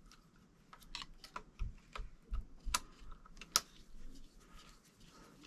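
Irregular light clicks and taps of small hard parts being handled, the sharpest about three and a half seconds in.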